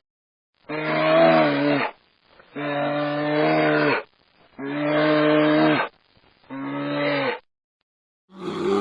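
A cow mooing four times, each moo a steady call lasting over a second with short gaps between. A different, harsher animal call begins right at the end.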